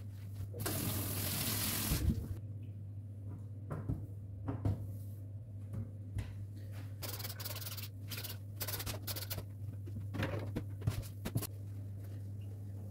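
Kitchen cleaning sounds: a tap runs for about a second and a half near the start, then a scatter of short knocks and clatters as dishes and kitchen items are handled, over a steady low hum.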